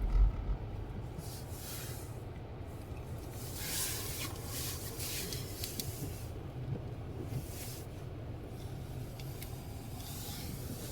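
Steady road and engine rumble inside a moving car on a snowy road, with several hissing swooshes, the strongest about four seconds in. A short low thump right at the start.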